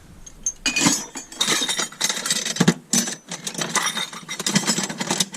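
Loose metal scrap being rummaged and clattering in a box: brass taps, fittings and hand tools clinking and knocking together in a dense, irregular run of sharp clanks.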